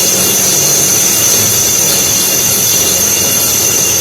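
Power drill running steadily, boring into a masonry wall with a continuous high whine.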